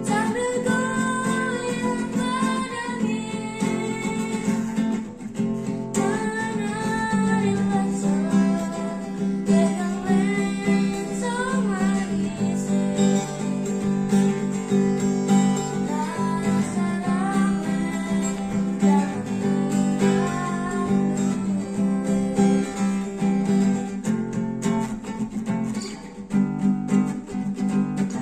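Acoustic guitar strummed in a steady rhythm, accompanying a sung melody of an Indonesian regional folk song.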